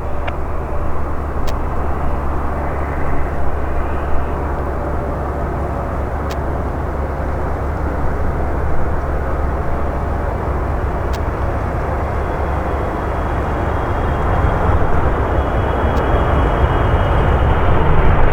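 Boeing 777-300ER's GE90 turbofan engines on approach: a steady jet rush that grows louder over the last several seconds, with a thin high whine coming in during the second half.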